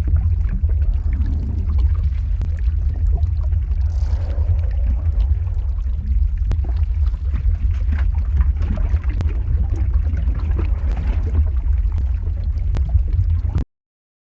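Lava-flow ambience sound effect: a deep, steady rumble with scattered crackles and pops. It cuts out to silence for about half a second near the end.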